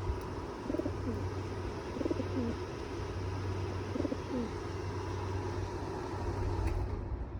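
Pigeon cooing: three short, low, warbling coos in the first half, over a steady low hum.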